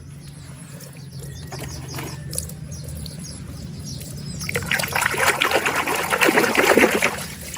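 Water trickling and splashing as a muddy toy animal is washed, growing louder and busier from about halfway through and easing off shortly before the end.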